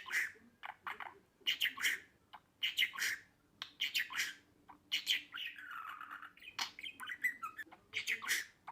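Budgerigar chattering: a quick series of short sharp chirps and squawks, with a longer warbling passage about halfway through.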